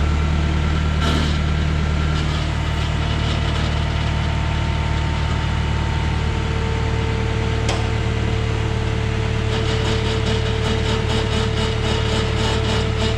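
An old lifting machine's engine running steadily while it hoists an engine on chains. A steady whine joins about six seconds in. There are a couple of light clicks and some fast metallic ticking toward the end.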